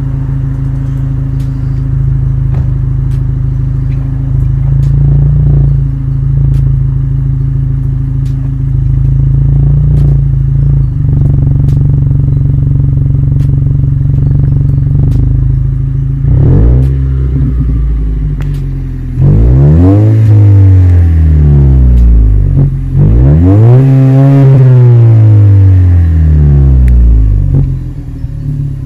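2016 Lexus IS200t's turbocharged 2.0-litre four-cylinder through a Remark muffler-delete exhaust, idling steadily at first. From about 16 seconds in the engine revs up and down in two big sweeps, the loudest part.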